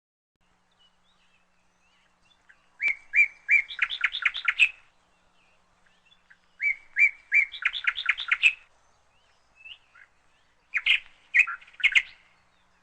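A songbird singing three phrases a few seconds apart, each a few clear notes followed by a quick run of rapid notes.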